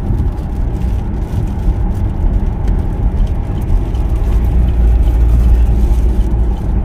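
Inside a moving car: steady low rumble of the engine and tyres on the road, growing louder about two thirds of the way through.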